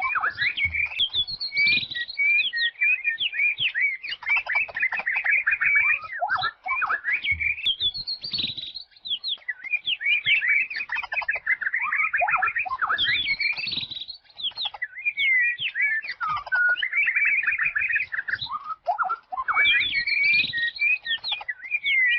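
Songbird singing a continuous, varied song of fast trills and whistled notes, with only brief pauses.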